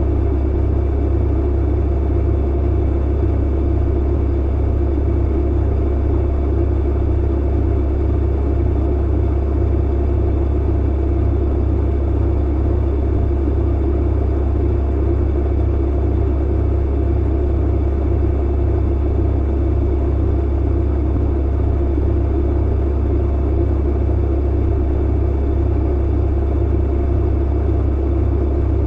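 Tumble clothes dryer running: a steady low rumble with a faint hum, unchanging throughout.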